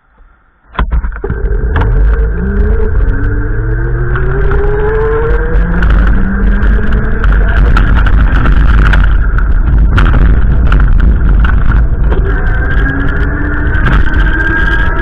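A motor vehicle's engine accelerating, its pitch rising steadily, then rising again near the end, over a heavy low rumble of wind buffeting the microphone. The sound starts suddenly about a second in.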